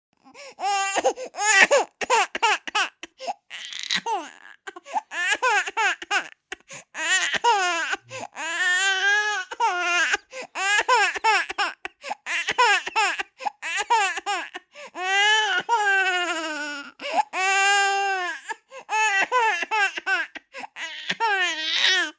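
A baby crying: choppy, catching sobs at first, then long wails that rise and fall, one after another with short gasps between.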